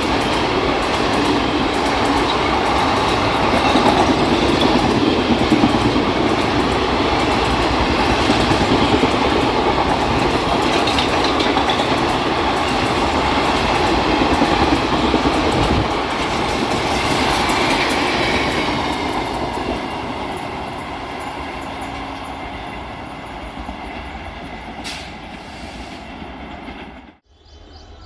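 Express passenger train hauled by an electric locomotive passing at speed, its coaches running by with loud, steady wheel-on-rail noise. The noise fades over the last several seconds, then cuts off suddenly near the end.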